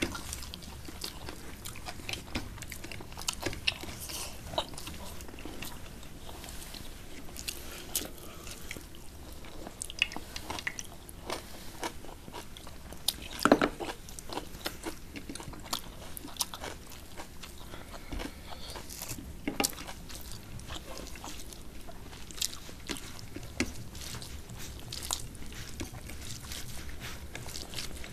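Close-miked eating: chewing and mouth clicks, with fingers mixing rice and curry on plates. Many short sharp clicks throughout, the loudest about halfway through.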